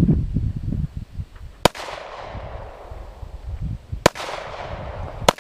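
Three handgun shots, the second and third closer together than the first two, each followed by a short echo across the range. Wind rumbles on the microphone between them.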